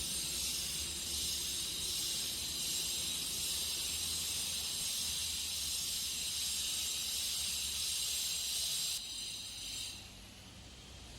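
Compressed-air blower hissing steadily as it blows dust out of a concrete crack during surface preparation for epoxy filling. The hiss cuts off abruptly about nine seconds in.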